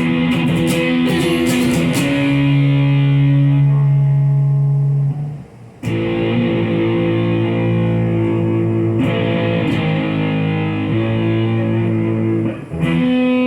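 Guitar, likely electric through an effects unit, playing long, ringing chords with no singing. The chord changes every few seconds, and the sound drops out briefly about five and a half seconds in and again near the end before the next chord.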